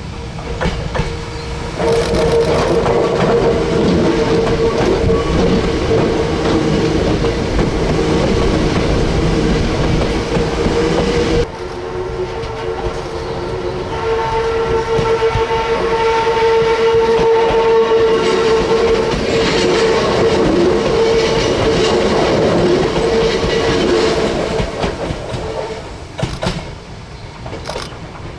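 Hakone Tozan Railway electric train running past with a rumble and a steady whine that holds one pitch for over twenty seconds. The sound changes abruptly about eleven seconds in and fades near the end.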